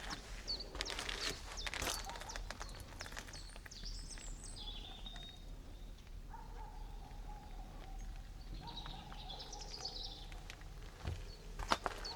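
Songbirds singing in a spring forest, with high chirps and whistled phrases. Footsteps on the forest floor are heard for the first couple of seconds and again near the end.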